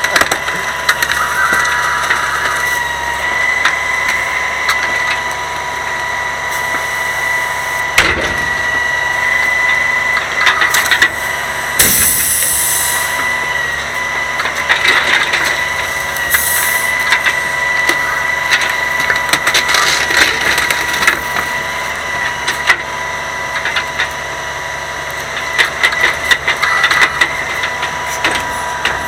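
Grapple truck's claw crushing and gathering a pile of bulk trash, with wood cracking and splintering in many scattered cracks and knocks over a steady high whine from the running truck. Two short hisses come near the middle.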